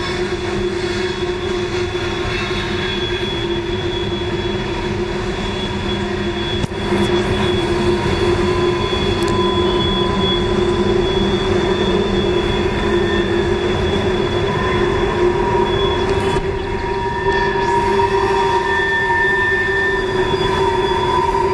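Freight cars of a Norfolk Southern train rolling around a sharp curve: the wheels rumble steadily while the flanges squeal in several steady high-pitched tones. It grows louder about seven seconds in.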